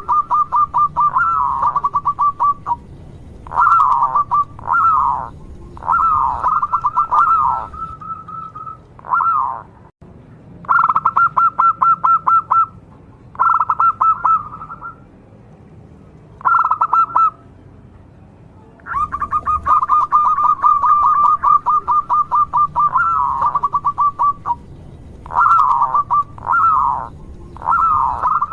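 Local perkutut (zebra dove) singing in repeated phrases, at times a long run of rapid stuttering notes and at times short swooping coos. Its call is loud and mid-pitched, with gaps of a second or two between phrases.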